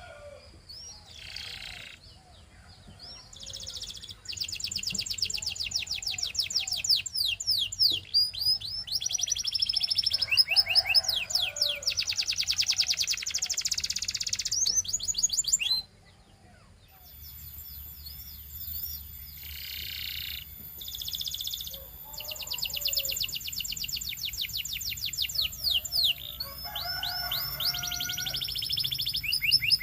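Canary singing in long phrases of fast trills, rolls of rapidly repeated high notes broken by short pauses. About halfway through, the song cuts off abruptly and starts again a second later.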